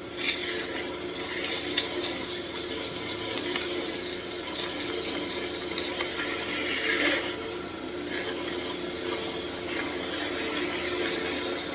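320-grit sandpaper held against a walnut wand spinning on a wood lathe: a steady sanding hiss over the lathe's hum. The hiss lets up briefly about seven seconds in, then goes on.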